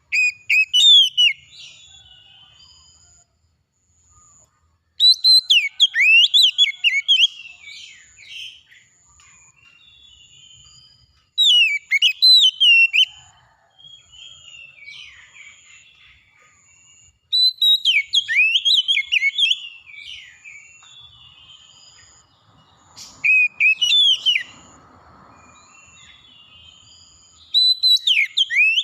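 Oriental magpie-robin singing loud, clear whistled phrases full of quick rising and falling notes, a burst every five or six seconds. A faint high note repeats about once a second behind it.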